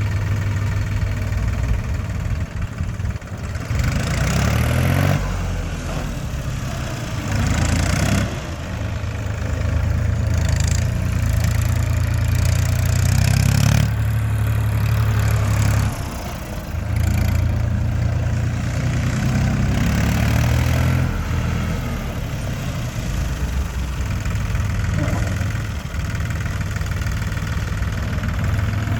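Massey Ferguson 2615 tractor's diesel engine running, its speed shifting up and down a few times with a short dip about halfway through.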